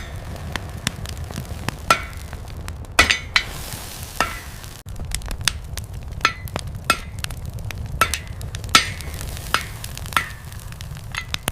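Blacksmith's forge running with a steady low rumble, under irregular sharp clicks, crackles and small metallic clinks.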